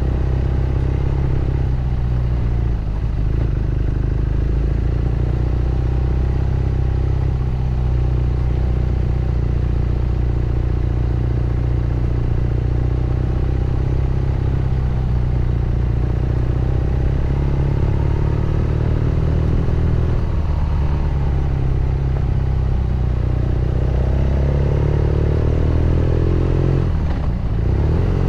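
BMW R nineT Scrambler's 1170 cc boxer twin running on the move, its exhaust note rising and falling with the throttle, with a brief drop in revs near the end before it pulls up again.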